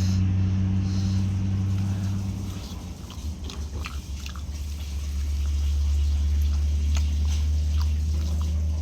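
A person chewing and biting into chicken, with small scattered crunches and crackles. Under it is a loud, steady low hum that drops in pitch about two and a half seconds in.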